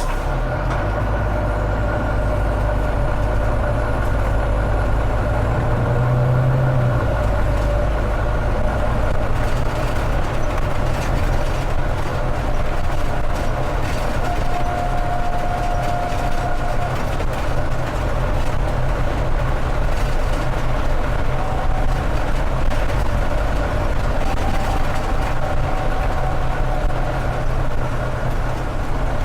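Volvo B9TL bus's six-cylinder diesel engine running with a steady low drone and thin whistling tones from its turbocharger.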